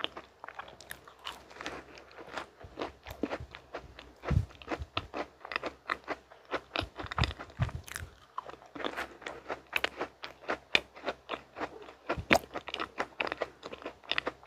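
Close-miked ASMR chewing of a mint macaron: crisp shell crunching and crackling with wet mouth clicks, growing denser after the rest of the piece goes in about eight seconds in.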